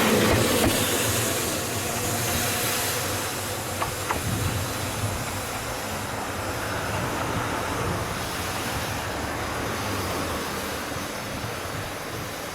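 Ohmi Railway electric train running past and pulling away, its noise fading steadily, with a couple of sharp clicks from the wheels about four seconds in.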